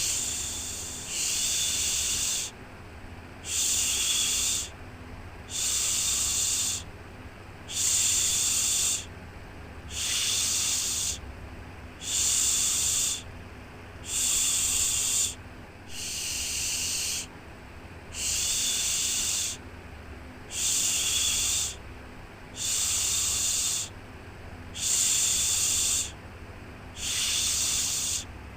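A rhythmic "shhh" shushing sound, repeated about once every two seconds, each shush about a second long, over a steady low hum.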